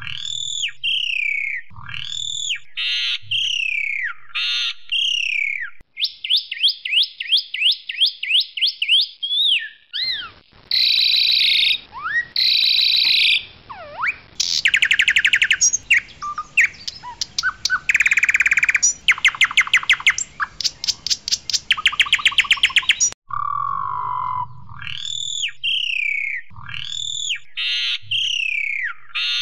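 Jalak suren putih, a white form of the Asian pied starling (Sturnus contra), singing loudly: repeated clear whistled phrases that sweep downward, then a fast run of short rising notes. Midway comes a stretch of harsh squawks and rapid buzzy rattling trills, and the downward-sweeping whistles return near the end.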